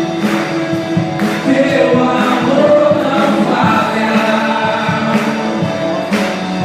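Live gospel worship music: a band playing with a steady beat about once a second, under sung vocal lines.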